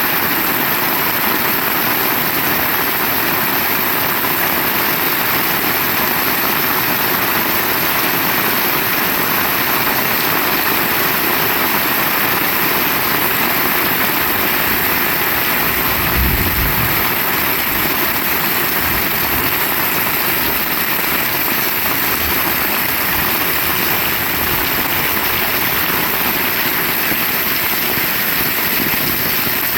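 Heavy rain falling steadily, a dense even hiss, with a brief low thump about halfway through.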